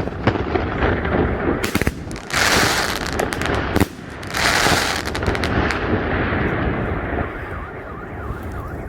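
A large 2-inch, 36-shot consumer firework cake firing in quick volleys: sharp launch thumps and shell bursts with two spells of loud hissing crackle, thinning out toward the end. Near the end a car alarm starts wailing up and down.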